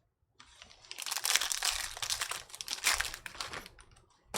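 Foil trading-card pack wrapper crinkling as it is torn open and handled, a dense crackle lasting about three seconds, with one sharp click near the end.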